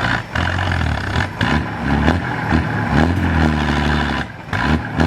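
Truck engine revving, its pitch rising and falling, with several sharp knocks or breaks in the sound.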